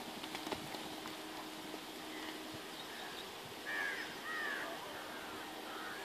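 A bird calls in a quick run of short arched chirps, a little past the middle, over a faint steady background hiss.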